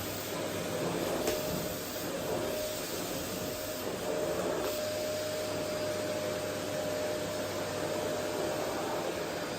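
Vacuum cleaner running steadily: an even rush of air with a steady motor whine held at one pitch.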